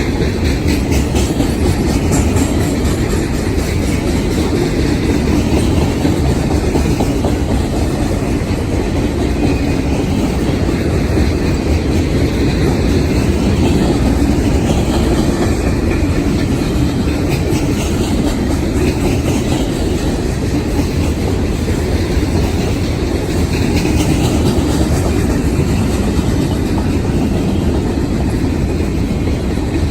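Freight train cars rolling past steadily, with steel wheels clacking over the rail joints.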